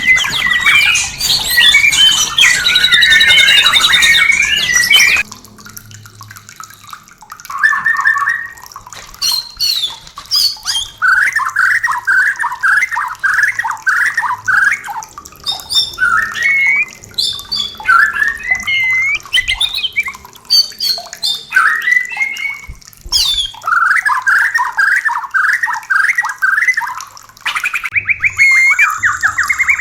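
White-rumped shama (murai batu) song: a dense, loud run of varied notes that cuts off about five seconds in, then repeated bouts of fast, harsh chattering notes broken by short single calls.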